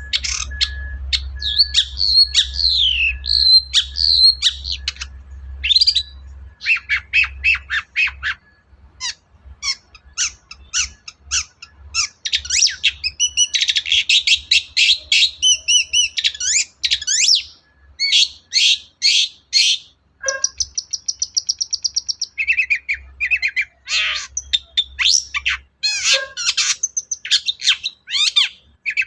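Long-tailed shrike (cendet) in full, loud song: quick strings of harsh chattering notes, rattles and trills, with short pauses, and a fast buzzy trill about two-thirds of the way through. The varied song is filled with imitations of other birds' calls.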